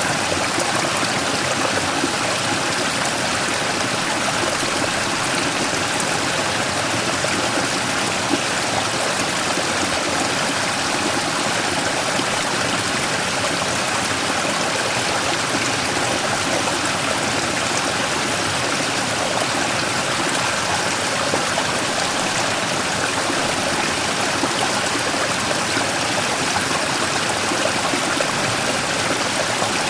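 Mountain stream rushing and splashing over a large rock, a steady even flow of water.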